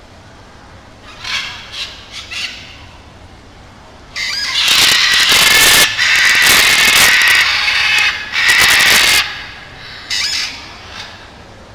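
Parrots screeching: a few short harsh calls, then loud continuous screeching from about four seconds in that lasts about five seconds, and one more short call near the end.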